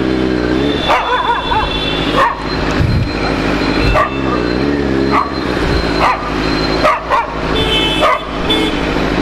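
A dog barking repeatedly, about ten sharp barks spread irregularly, over a motorcycle engine running underneath whose pitch rises and falls a few times as it is revved.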